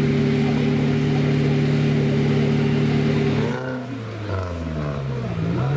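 Off-road competition vehicle's engine held at steady high revs, then the revs drop suddenly about three and a half seconds in and rise and fall again.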